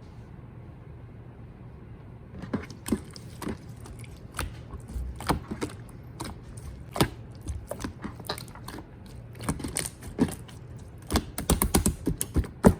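Clear pink jelly slime being squished and poked by hand, making scattered short clicks and pops. They start about two seconds in and come thick and fast near the end.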